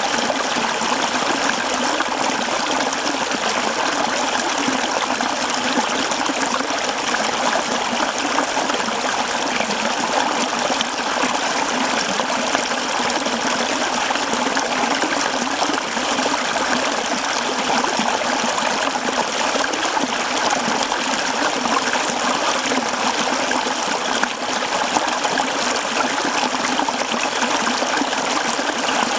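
Mountain stream running over rocks, a steady close-up babble and splash of water.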